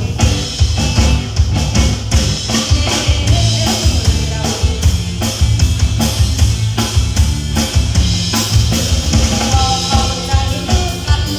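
Live band playing an instrumental passage: a drum kit with kick and snare keeps a steady beat over bass, with a melody line coming through more clearly in the second half.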